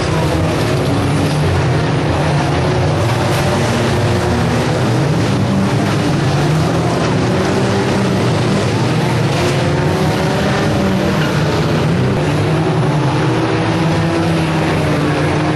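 Engines of several 1600cc banger racing cars running hard together in a continuous loud din, their pitches wavering up and down as they rev and ease off.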